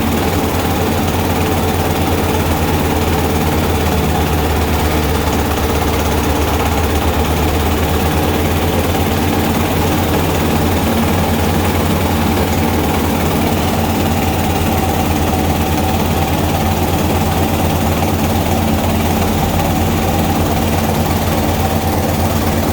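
Rice bran milling machine and its engine running steadily and loudly, with a continuous rushing noise over the engine's drone.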